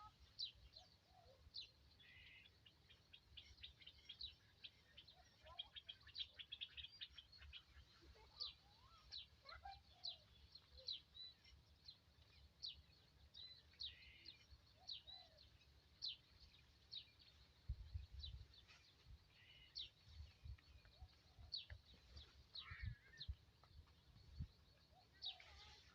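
Small birds chirping, faint: many short, sharp, high calls repeated quickly throughout, with a few dull low bumps in the second half.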